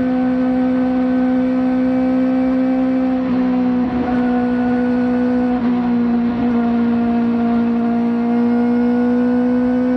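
Kawasaki ZX4RR's 399 cc inline-four, fitted with a slip-on exhaust, running steadily at high revs under way. Its note holds nearly constant, sags slightly through the middle and climbs a little again near the end.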